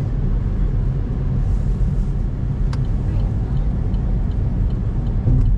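Road noise inside a moving car's cabin: a steady low rumble from the tyres and engine, with a single sharp click a little before halfway and faint light ticking in the second half.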